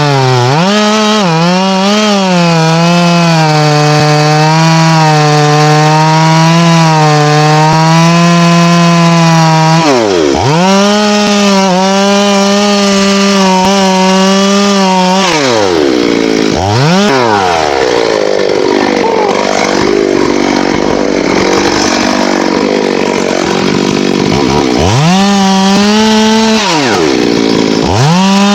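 Two-stroke chainsaw held at high revs on teak wood, the throttle dropping briefly to idle and opening up again several times. Through the middle stretch the engine note wavers unevenly, as under the load of a cut.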